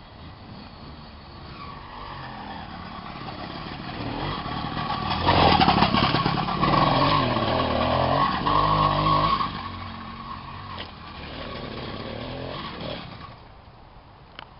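Small 66cc moped engine running, growing louder over a few seconds, loudest for about four seconds with its pitch shifting, then fading away and dropping off near the end.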